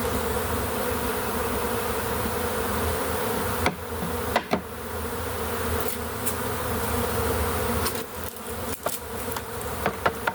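A honey bee swarm buzzing in a steady hum. Several sharp knocks and clicks cut through it, a few about four seconds in and a quick run of them near the end.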